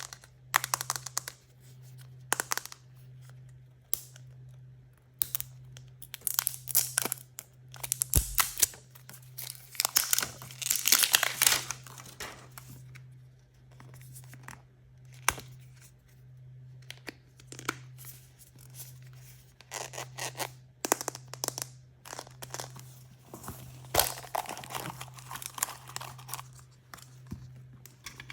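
Plastic blind-bag and surprise-toy packaging being torn open and crinkled by hand, in irregular crackling bursts with small clicks, over a steady low hum.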